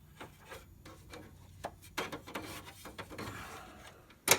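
Hands working on an HP 3330 printer's plastic housing during disassembly: rubbing and scraping of plastic parts with scattered small clicks, and a sharp loud snap near the end.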